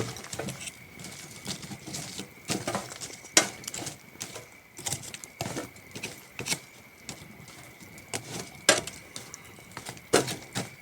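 Wood campfire crackling, with irregular sharp pops and snaps. Crickets chirp in one steady high trill underneath.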